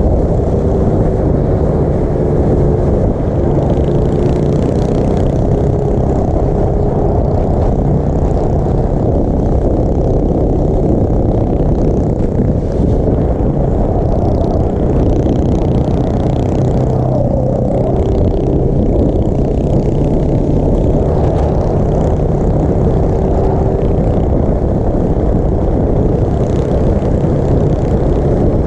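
Small single-cylinder motorbike engine running while being ridden, its pitch wavering up and down with the throttle, under a loud, dense low rushing noise.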